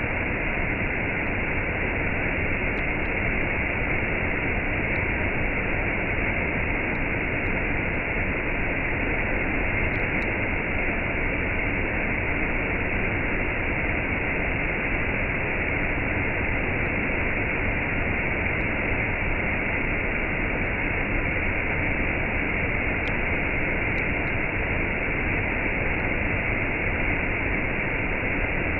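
Waterfall and cascade: water falling in a steady, unbroken rush.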